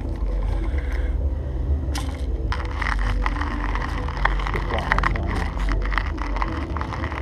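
Coffee beans being crushed in a small hand grinder: a dense, irregular crackling that starts about two and a half seconds in, over a steady low rumble.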